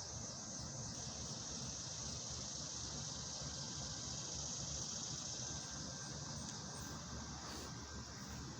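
Insects outdoors, likely crickets or cicadas, keep up a steady high-pitched drone. Under it is a low rumble.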